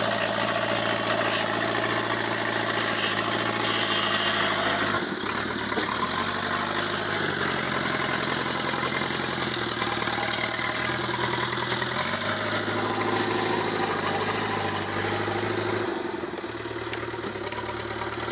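Backhoe loader's diesel engine running, its speed stepping down and up several times.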